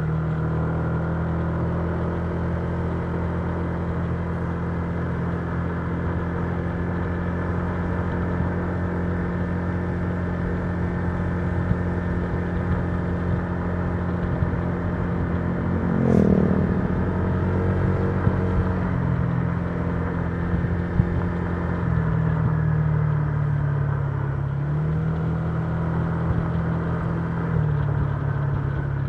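Honda Giorno 125 scooter's single-cylinder engine running at a steady cruise, its note dropping and rising a few times in the last third as the throttle changes. About halfway through a brief louder sound sweeps down in pitch.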